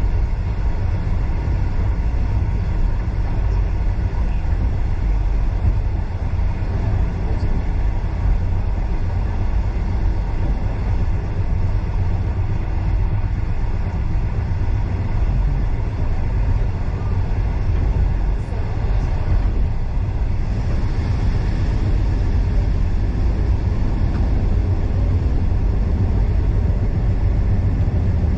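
Steady low rumble of a passenger carriage rolling along the track at speed, with a faint hiss that rises a little about twenty seconds in.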